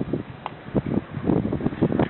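Wind buffeting the microphone in gusts: an uneven low rumble with irregular thumps that rises and falls.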